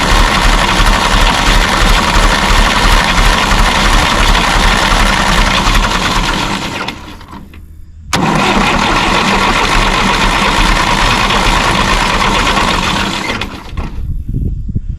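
1954 Fordson tractor engine being cranked by its starter in two long bursts, with a pause of about a second and a sharp click at the restart, trying to fire but not catching: there is air in the fuel system.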